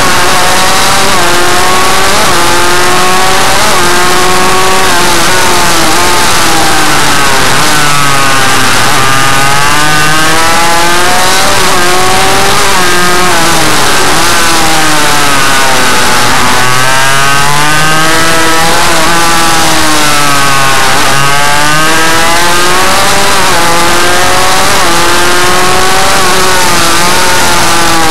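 Small minimotard motorcycle engine revving, its pitch climbing and dropping again and again as it is ridden hard, loud throughout.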